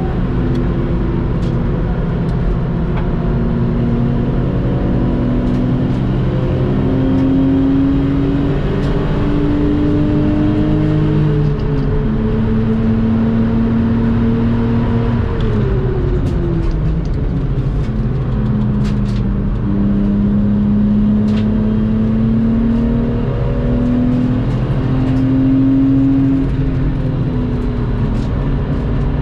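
Lexus IS200 engine running hard on a race circuit, its note climbing under acceleration and dropping back several times, with a longer fall in pitch about halfway through, over wind and tyre noise.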